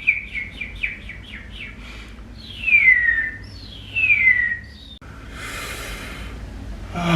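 Person making bird-like vocal sounds: a quick run of short falling chirps, then two long falling whistles, then a breathy hiss of about a second near the end.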